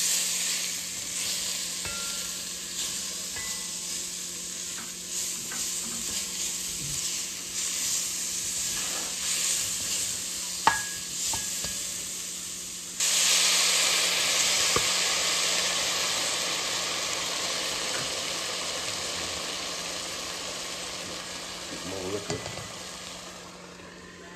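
Chopped peppers and onions sizzling as they fry in a pan, with a few clinks. About halfway through the sizzling suddenly gets louder, then slowly dies down.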